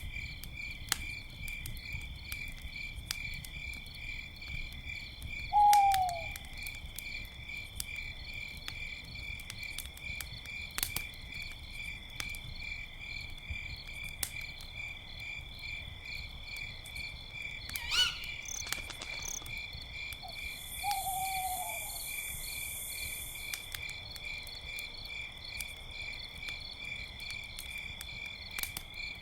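Crickets chirping steadily in a fast pulsing rhythm, with scattered crackles and pops from a campfire. An owl gives a short falling call about six seconds in, and again about twenty-one seconds in.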